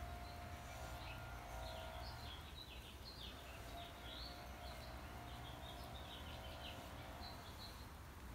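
Birds chirping in many short, quick calls over a faint low steady hum, with a faint steady tone that sounds twice for a couple of seconds each.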